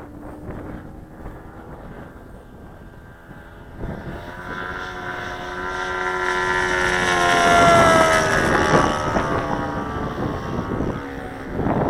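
Saito 180 four-stroke glow engine on an RC Mew Gull model with an 18x6 propeller, faint and distant at first, then growing louder about four seconds in as the plane flies past, loudest about eight seconds in with its pitch dropping as it goes by, then fading. Wind noise on the microphone underneath.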